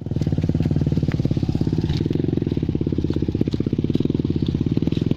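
Motorcycle engine running steadily at a constant speed, with a few light rattles over it.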